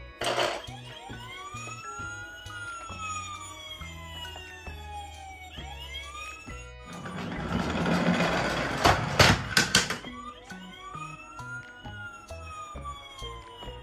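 A siren wailing over background music: each call rises quickly, then slides slowly down in pitch, and it sounds twice. In the middle, a rush of noise grows louder and ends in a quick run of clicks.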